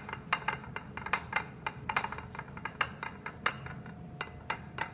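Tableware clinking on a plate: a run of light, irregular clinks and taps, several a second.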